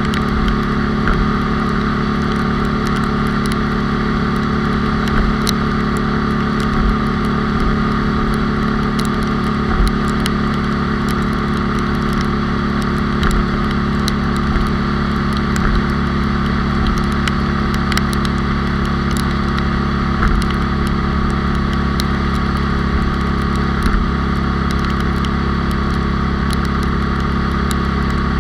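Onboard sound of a 97cc four-speed Honda Cub running at a steady speed, its single-cylinder four-stroke engine holding an even pitch with no shifts or revving. Small knocks come every second or two over a steady rush of wind and road noise.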